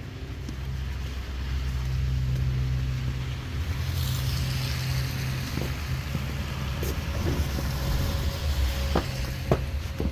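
Motor vehicle engine running nearby with a steady low hum, joined about four seconds in by the hiss of tyres on the snowy road that swells and fades over a few seconds. A few sharp steps sound near the end.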